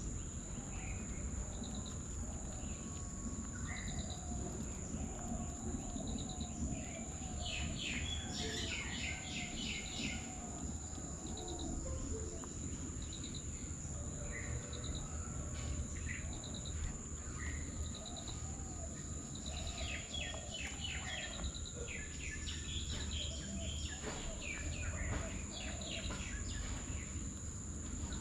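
Birds calling in quick runs of chirps, twice in longer spells, over a steady high insect drone and a short insect chirp repeating about once a second, with a low rumble of outdoor background noise.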